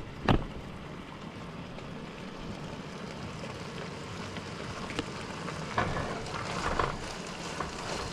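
Bacon frying with a steady sizzle. A sharp knock comes just after the start, and a few brief louder noises come about six to seven seconds in.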